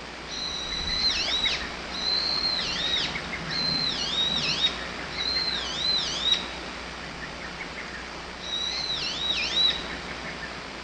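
Lesser cuckoo (hototogisu) singing its loud whistled song, the same short phrase repeated: a held note followed by two quick dipping notes. Four phrases come in close succession, then after a pause one more near the end.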